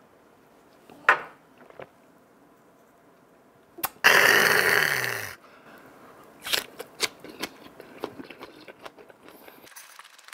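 A person biting into and chewing a wrap of raw onion and grilled pork skin, with crisp crunches and a run of short clicks in the second half. About four seconds in comes a loud breathy sound with a falling pitch, lasting just over a second.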